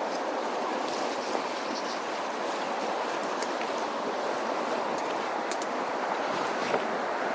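Mountain stream rushing over rocks: a steady, even rush of water, with a few faint clicks.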